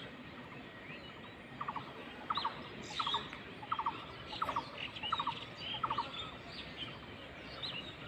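Outdoor birdsong. Several birds give short high chirps throughout, and one repeats a quick stuttering three- or four-pulse note about eight times, roughly one every two-thirds of a second, from about one and a half seconds in until past the middle.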